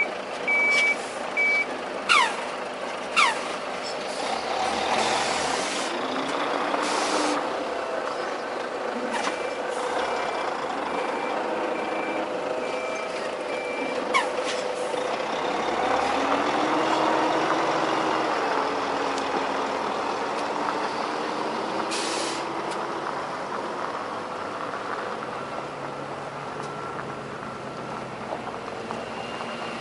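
Heavy truck manoeuvring: its diesel engine runs, changing pitch as it works, while a reversing alarm beeps at the start and again for several seconds midway. Short hisses of air brakes sound a few times.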